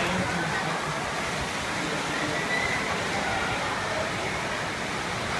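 Steady downpour of rain, an even hiss without breaks.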